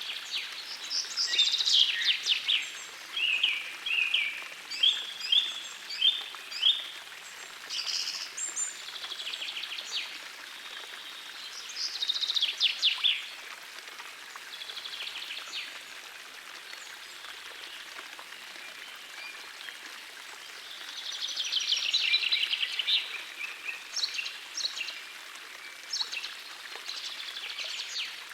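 Songbirds singing over the steady rush of a small forest stream. A run of short, repeated chirped notes comes in the first few seconds, and a long trilled phrase about three-quarters of the way through, with quieter gaps of only the water between.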